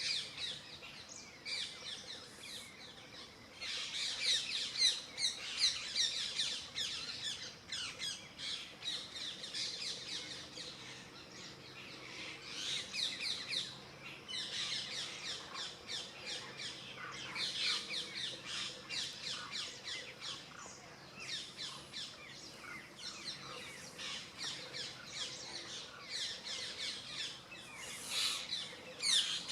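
Many birds chirping and squawking together. Dense, rapid, high calls rise in loud spells every few seconds and then ease off.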